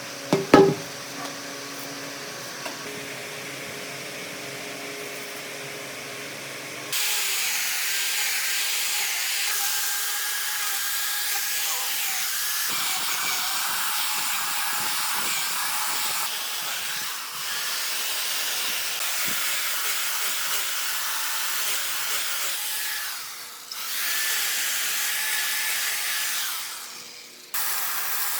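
A power tool working wood with a steady, high, hissing whine, switching on abruptly after a quieter stretch that opens with a sharp knock, and dipping and cutting in and out a few times.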